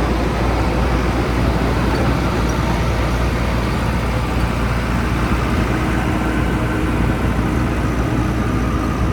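Kirloskar diesel engine of a JCB 3DX backhoe loader running steadily with a heavy low rumble while it works.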